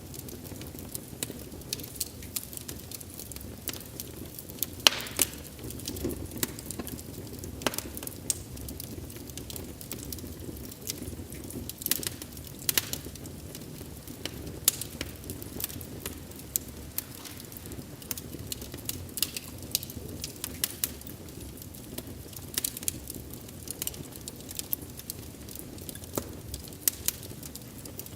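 Wood fire burning, with a steady low rumble of flames and frequent sharp, irregular crackles and pops.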